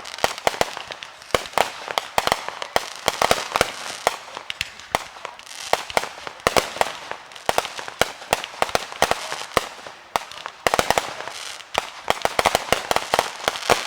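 Fireworks going off in a dense run of sharp cracks and pops, many a second, with a brief let-up about two-thirds of the way through.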